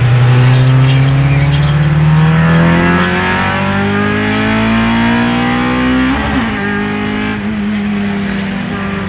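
Car engine heard from inside the cabin while driving, accelerating with a steadily rising pitch for about six seconds, then dropping at a gear change and holding a steady pitch.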